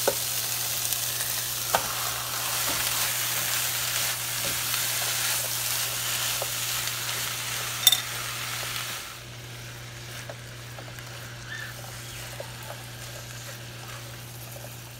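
Minced meat, bell peppers and onion sizzling in a hot frying pan while being stirred with a silicone spatula, with a sharp tap of the spatula on the pan about eight seconds in. The sizzle drops to a quieter level about nine seconds in, over a steady low hum.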